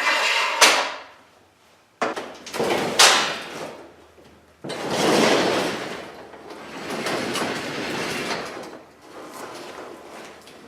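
Sectional garage door rolling and rattling along its steel tracks as it is moved by hand, with sharp metallic clanks. It starts suddenly about three times, and the longest run of rumbling comes in the middle.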